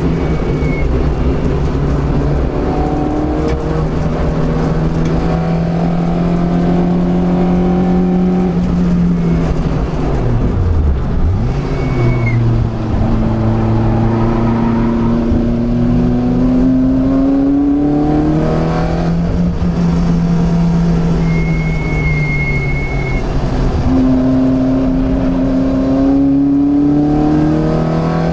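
Renaultsport Clio 182's 2.0-litre four-cylinder engine, breathing through Jenvey individual throttle bodies, heard from inside the cabin while it is driven hard on track. The revs climb steadily for several seconds at a time, then fall away at the shifts and lifts, and climb again. About eleven seconds in, the revs drop sharply and come straight back up.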